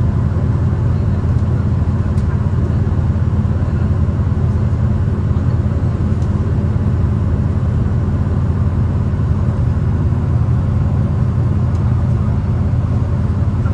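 Interior noise of a moving V/Line diesel passenger train: a steady low rumble from the engine and the wheels running on the track.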